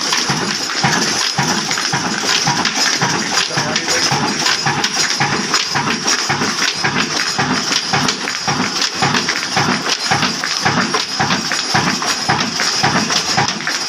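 Old Ruston Hornsby stationary diesel engine running steadily: a regular thump about four times a second, with metallic clatter and ticking from the valve gear over it.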